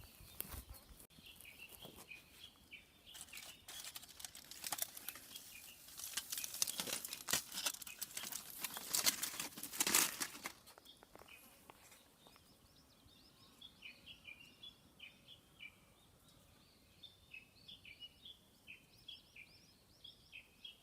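Close crackling and rustling clicks for about the first ten seconds, then small birds chirping in quick, repeated short notes.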